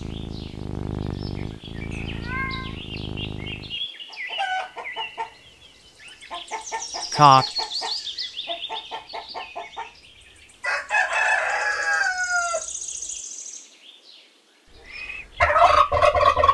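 Rooster crowing once, a long call about eleven seconds in, among small birds chirping. A low steady purr-like sound runs through the first few seconds, and a loud burst of another bird's calls comes near the end.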